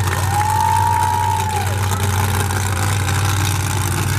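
Monster truck engine running steadily with a deep drone. Near the start, a high tone rises, holds for about a second, then falls away.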